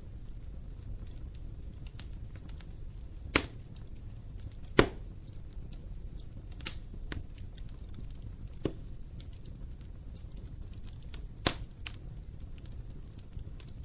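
Wood fire burning in a fireplace: a low steady rumble of flames with light crackling and five sharper pops, the loudest a little under five seconds in.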